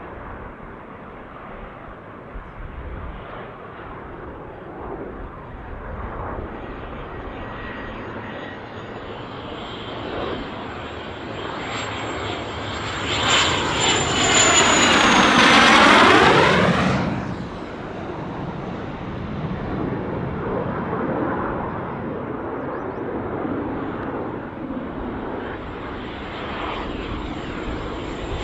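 Jet aircraft flying past overhead. The engine noise builds slowly and peaks loudly around the middle with a sweeping whoosh and a high whine, then drops away sharply as it passes, leaving a lower rumble.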